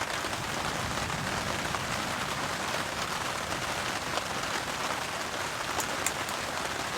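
Steady rain falling on a heavy-duty tarp overhead, an even hiss of drops, with a few sharper drip ticks about six seconds in.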